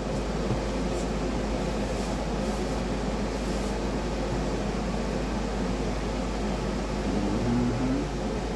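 Steady whir of an electric fan running with an even low hum.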